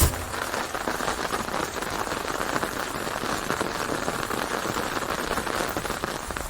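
Rain falling steadily in a dense patter, with a single sharp knock right at the start.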